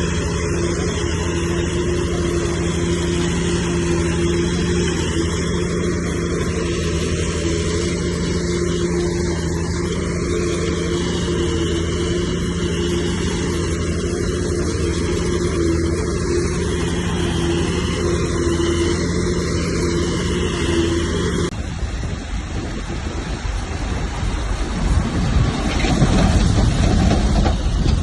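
Diesel engine of heavy earthmoving machinery running at a steady speed. About three-quarters of the way through it cuts off abruptly to a rougher, noisier rumble that grows louder toward the end.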